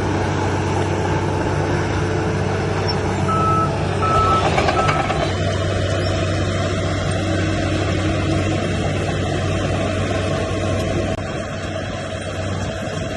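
Heavy earthmoving machinery running steadily, with three short beeps of a reversing alarm between about three and five seconds in.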